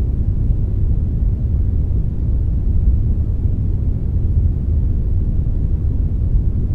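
Synthetic brownish noise, a blend of brown and white noise: a steady, deep hiss with its weight in the low end and little treble, unchanging throughout.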